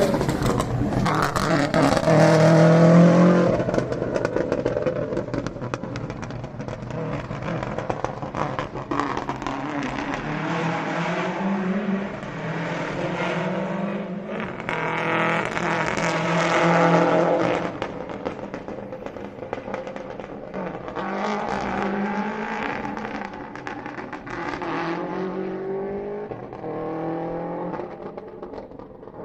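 Historic rally car engines revving hard, the pitch climbing and dropping over and over as the cars accelerate through the gears. The engine sound is loudest about three seconds in and again around seventeen seconds.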